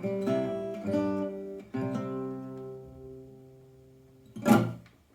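Fingerstyle acoustic guitar, a Waterloo WL-S Deluxe flat-top, playing the closing phrase of an old-time country song: three chords struck about a second apart, the last left ringing and slowly fading out. Near the end comes one short, loud burst of noise.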